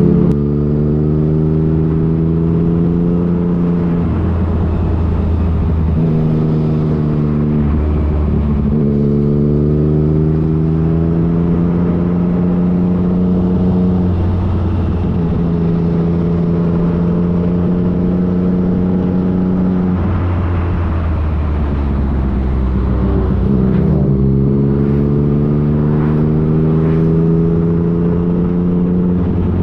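Motorcycle engine, a Yamaha FJ-09's 847 cc inline-three, pulling through the gears. The note climbs in each gear and drops at each upshift, about half a dozen times, with stretches held steady between.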